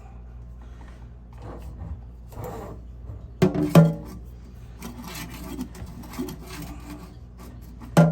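Scraping and rubbing as a stiff, corroded Delta kitchen faucet is twisted and worked by hand, with two loud sharp clunks about three and a half seconds in.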